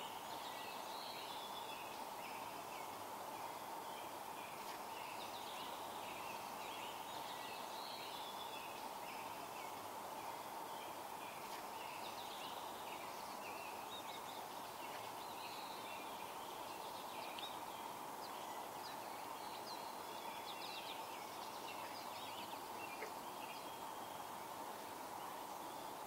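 Small birds chirping and singing continuously, with short repeated notes over a steady background hiss.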